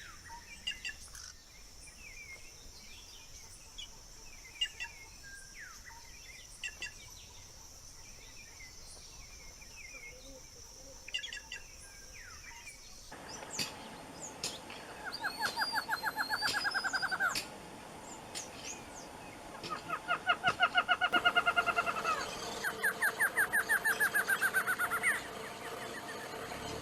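Wild birds calling: scattered short chirps over a steady high hiss, then, after an abrupt change, a louder bird song of three fast trills of rapidly repeated notes, each lasting two to three seconds.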